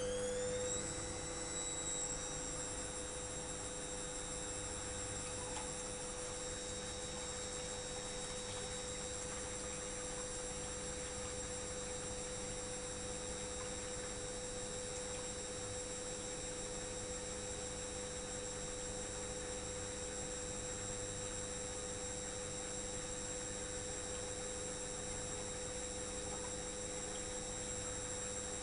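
Electrolux EWS 1045 washing machine on a fast spin: the motor's whine finishes rising and settles about a second in, then holds steady at a high pitch.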